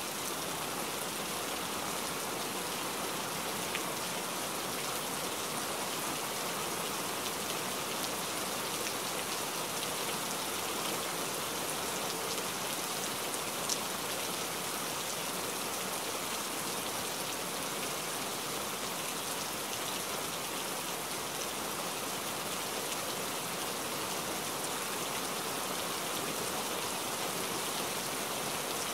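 A steady, even hiss like falling rain that holds one level throughout, with a couple of faint ticks.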